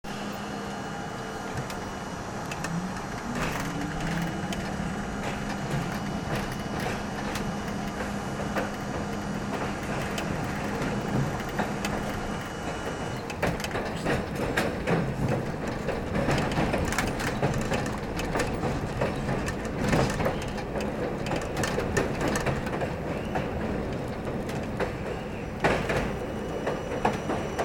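R42 New York subway car in motion: a steady low hum, then a short rising whine about three seconds in, then wheels clattering over rail joints more and more densely from about halfway through.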